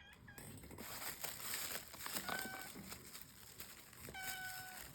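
A domestic cat calling twice, short level-pitched meows about two seconds apart, over a steady rustle of packaging being handled.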